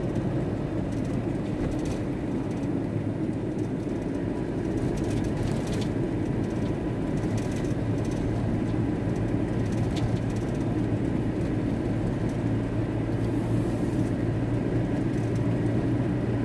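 VW T4 Transporter van driving along, its engine and road noise heard as a steady drone from inside the cab.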